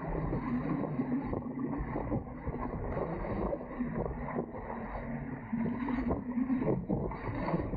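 Wind buffeting the microphone aboard a Dart 18 catamaran under sail, with water rushing along the hulls, as steady, uneven noise.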